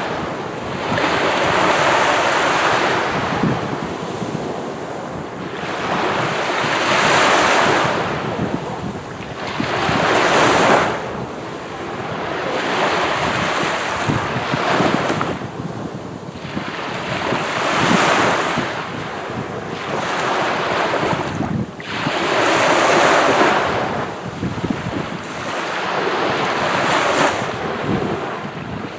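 Sea waves breaking on a beach, the surf swelling and washing out again about every four seconds.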